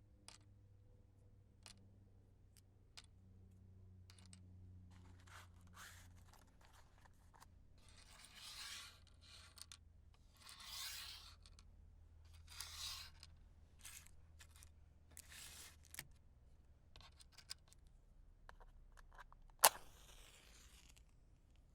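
Wooden matches handled and struck against a matchbox: light clicks and taps, three short scratchy rasps in the middle, and near the end one sharp strike followed by a brief hiss.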